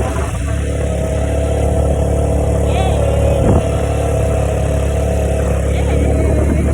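Small automatic motorbike running steadily while being ridden, with a constant low rumble under a steady engine note. A single knock about three and a half seconds in.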